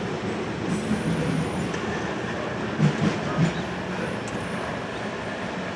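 Freight train's grain cars rolling past: a steady rumble of wheels on rail, with three louder clacks about three seconds in and a faint thin wheel squeal.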